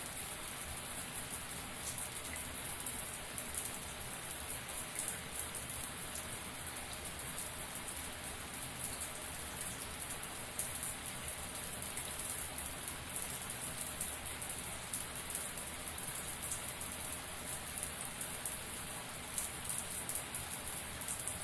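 Shower water spraying and pattering steadily, a dense even hiss of drops with fine crackling splashes.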